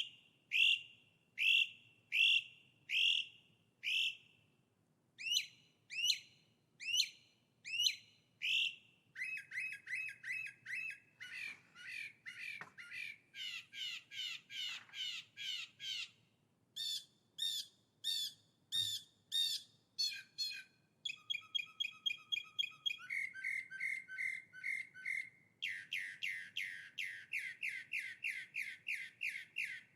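A songbird singing in phrases of repeated notes. It starts with clear notes about one a second, then switches every few seconds to faster runs of repeated notes, up to a quick trill near the end.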